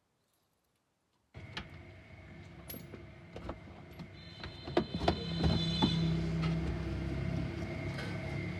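Sharp metallic clicks and knocks, like tools and small metal parts being handled, over a steady background hum; it starts after a short silence.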